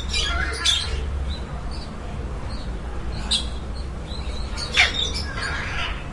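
Caged birds calling: a few sharp, separate squawks, the loudest a steeply falling call near the end, over a steady low rumble.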